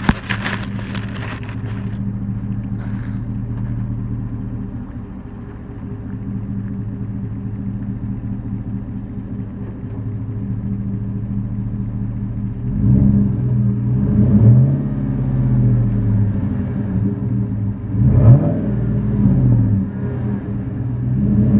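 2014 Chevrolet Silverado's 5.3-litre V8 through a Flowmaster 40 Series single-in, dual-out muffler, idling steadily. About halfway through it is revved lightly several times, each rev rising and falling back to idle.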